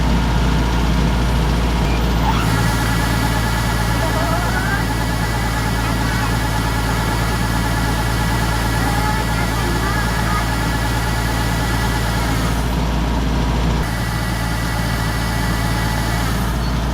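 Rice combine harvester running steadily, a loud continuous engine and machinery drone; its tone shifts abruptly twice, about two seconds in and near the end.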